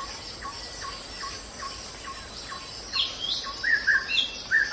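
Birds calling: a run of short repeated chirps, about two or three a second, with louder, higher calls from about three seconds in.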